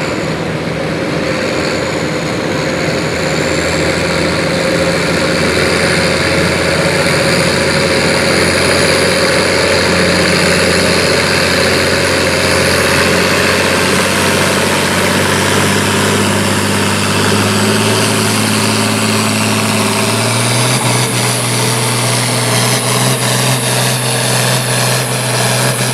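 International Harvester 1066 farm tractor's turbocharged six-cylinder diesel running steadily, then throttled up about two-thirds of the way through and holding at the higher speed.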